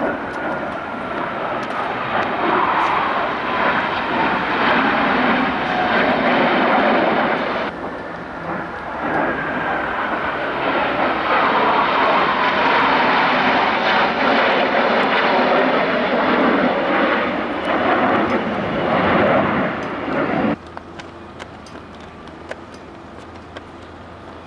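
Blue Angels F/A-18 Hornet jets flying past, a loud jet roar with a whine that falls in pitch as each pass goes by, twice, with a sudden break between them about eight seconds in. The roar cuts off abruptly about twenty seconds in, leaving a much quieter low, steady hum.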